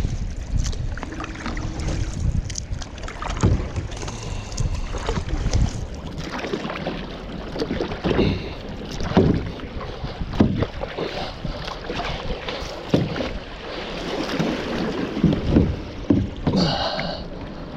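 Kayak paddle strokes in creek water: repeated dips and splashes about once a second, with water washing around the boat.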